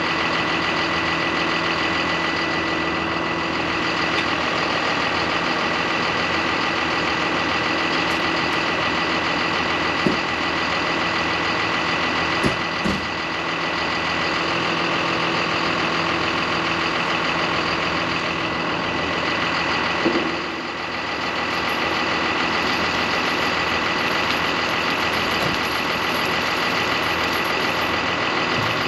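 Heavy diesel truck engine running steadily, with a thin steady whine over it and a few light knocks and clicks.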